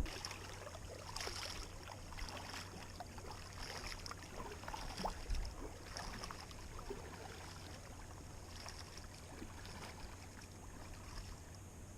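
Kayak being paddled: quiet splashes and drips of water off the paddle blades, with small knocks, at an irregular paddling pace.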